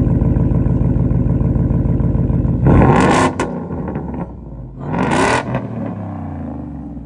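Exhaust of a 2017 Ford XLT pickup with an aftermarket muffler and 6-inch tips, revving: held at raised revs, then two sharp throttle blips about two seconds apart, the revs falling away after each.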